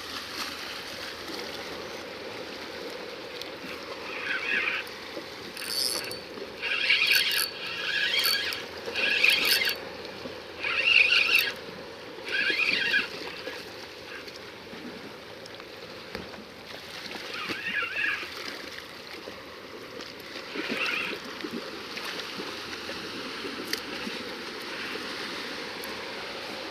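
Sea water washing against rocks, heard as a steady wash. Over it comes a run of short, pitched, rasping bursts, about one a second for several seconds, then two more later.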